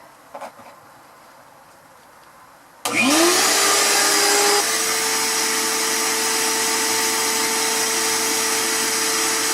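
Shop vac switched on about three seconds in: its motor whine rises quickly to full speed, then runs steadily with a strong rush of air. The pitch steps up slightly about a second and a half after it starts. A few faint clicks come before it.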